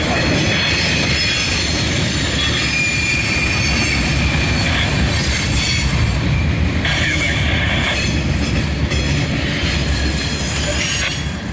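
Train cars rolling past close by: a steady loud rumble of wheels on rail, with high wheel squeal coming and going.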